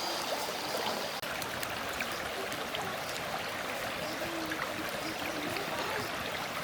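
Steady rushing and trickling of flowing stream water, with small scattered ticks.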